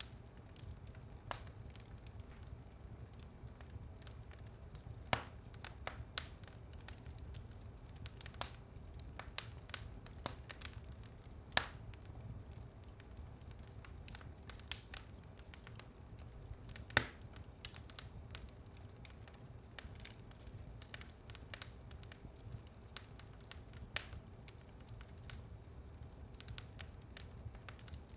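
Wood fire in a fireplace crackling, with irregular sharp pops over a low steady rumble; the loudest pops come a little before and a little after halfway.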